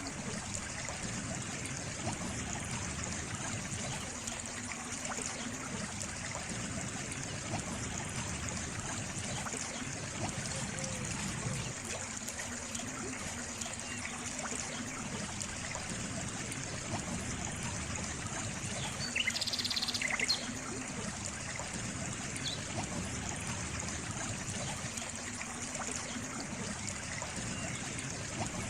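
Small stream of water trickling and flowing steadily. About two-thirds of the way through, a brief higher-pitched sound rises slightly above the water for about a second.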